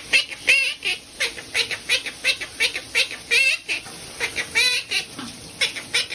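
Pet bird calling in a fast, excited series of short, sharp chirps and squawks, about three a second.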